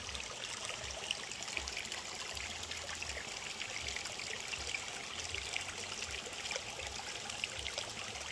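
Water trickling and running steadily, like a small stream, with many small splashy crackles.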